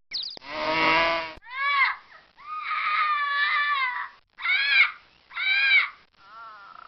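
Sheep bleating: six or seven separate bleats that rise and fall in pitch, a rough one about half a second in, a long drawn-out one in the middle, and the last one faint.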